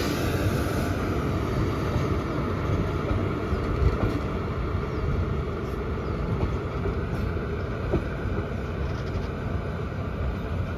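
Departing passenger train rolling past, a steady rumble of wheels on rails with a few faint clicks from the wheels over rail joints. A short hiss sounds at the very start.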